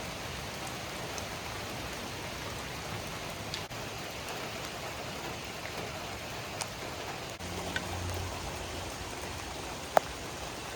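Heavy rain falling in a steady downpour, with a few light drop ticks and a single sharp click near the end.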